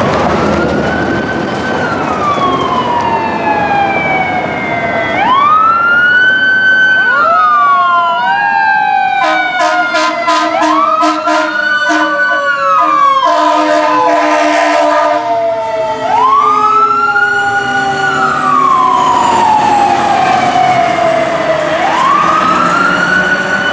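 Fire apparatus siren winding up quickly and sliding slowly back down, over and over about every five to six seconds, with horn blasts sounding in the middle.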